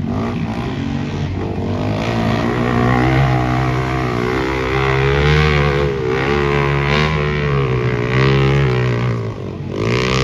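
Dirt bike engines revving on a motocross track, their pitch rising and falling several times as the throttle is worked, with a brief drop and a fresh swell of engine noise near the end.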